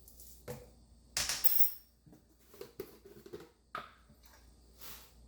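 Kitchen utensils clinking and scraping as a teaspoon of salt is measured out, with a brief scraping rustle a little over a second in and a sharp click near the end.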